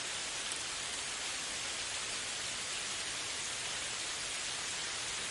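Light rain falling: a steady, even hiss with no individual drops or other events standing out.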